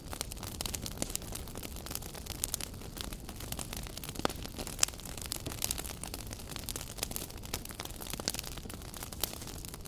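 Wood fire crackling in a fireplace: irregular sharp pops and snaps over a steady low hiss of burning. The two loudest pops come a little past the middle.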